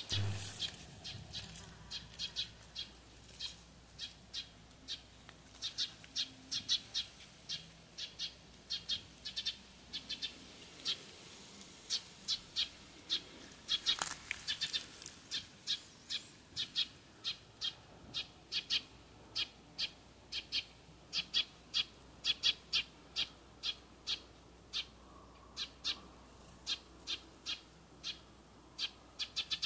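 A small bird giving short, sharp high chip calls over and over, about two a second, with one louder call about 14 seconds in.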